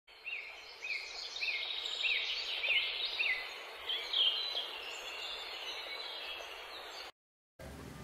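Birds chirping and singing over a steady background hiss, one bird repeating a short rising-and-falling chirp every half second or so. It cuts off suddenly about seven seconds in.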